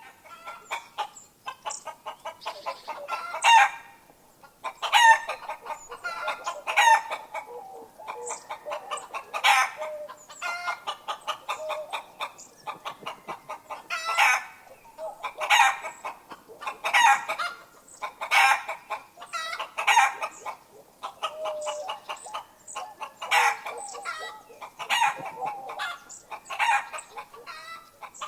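Chickens clucking steadily, with louder calls standing out every second or two.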